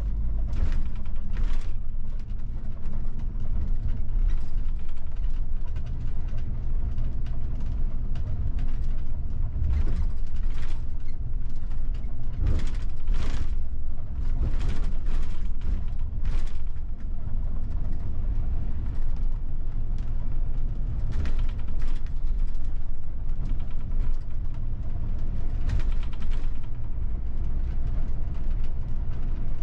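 A moving bus heard from the driver's cabin: a steady low engine and road rumble, with frequent short rattles and creaks from the bus body and fittings coming in clusters.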